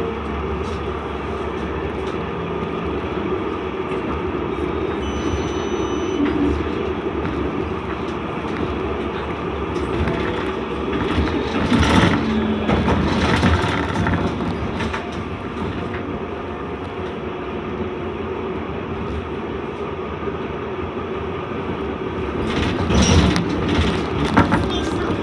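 Inside a Melbourne C Class (Alstom Citadis) tram running between stops: steady rolling and motor noise, with clattering knocks about twelve seconds in and again near the end.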